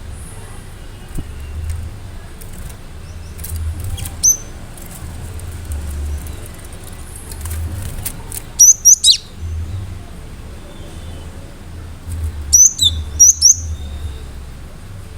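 Cinereous tit (gelatik batu) singing in sharp, high, rapid notes that drop in pitch: a few faint notes about 4 s in, then two loud quick bursts about 9 and 13 seconds in, over a steady low hum.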